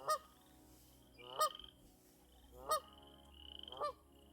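Goose honking four times, about a second and a quarter apart, each a short loud call, from geese agitated by a person close by.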